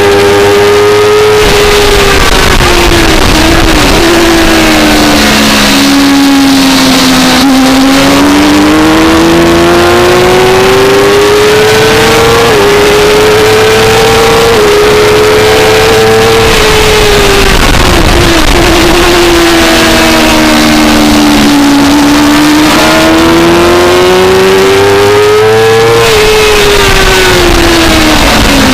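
On-board sound of a 2004 Suzuki GSX-R600's inline-four engine at race revs. The pitch falls twice as the bike brakes and downshifts for corners and climbs twice under hard acceleration.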